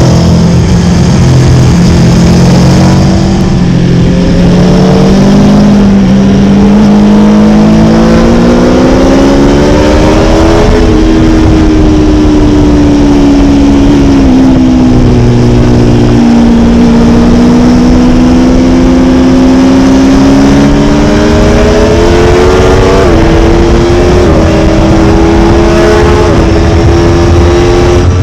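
Aprilia Tuono motorcycle engine heard on board while riding, its pitch rising and falling with speed over a steady rush of wind and road noise. There is a sharp drop in pitch about ten seconds in, like a gear shift, and quick dips again near the end.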